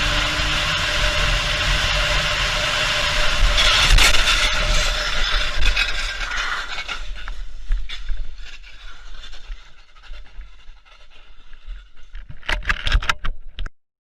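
A car driving with steady road noise, then about four seconds in a loud scraping burst with knocks, the sound of a collision, which fades over the next few seconds. A few sharp clicks come near the end before the sound cuts off.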